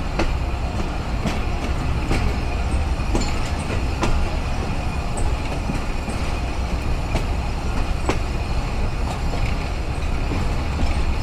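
Pakistan Railways passenger coach running through a station yard. A steady rumble is cut by irregular sharp clacks as the wheels cross rail joints.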